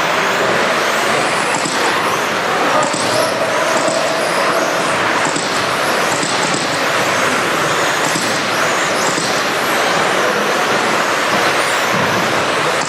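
A pack of RC stadium trucks racing around a dirt track, a steady mix of motor whine and tyre noise from many trucks at once.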